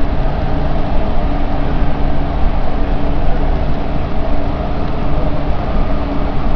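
Canada Line SkyTrain car running at speed, heard from inside: a steady, loud rumble of wheels on rail with a low, even hum underneath.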